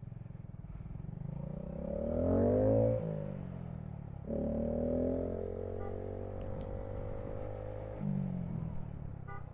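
Honda Grom's single-cylinder engine pulling up through the gears: the pitch climbs, drops with a shift about three seconds in, climbs again more slowly from about four seconds in, and shifts again near the end.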